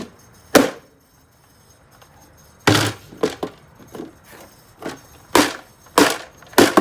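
About nine hard knocks or blows, a lone one early and then a run coming roughly every half second, like something being struck repeatedly.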